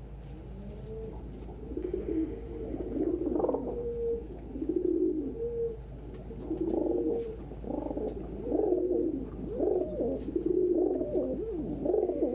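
Domestic pigeons cooing, a run of low coos one after another starting about two seconds in.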